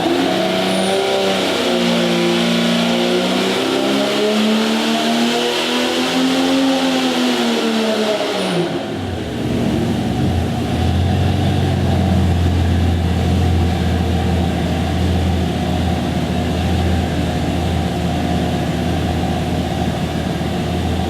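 Golen 4.6-litre stroker Jeep straight-six running on a dyno: its pitch climbs and then falls back over about eight seconds, then drops suddenly to a steady lower speed for the rest.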